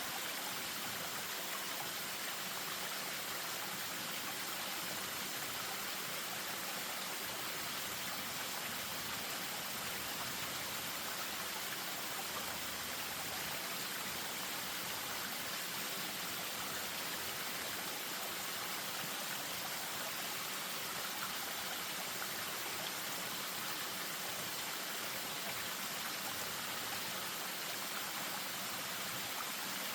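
Spring-fed stream spilling over a small waterfall: a steady, even rush of running water.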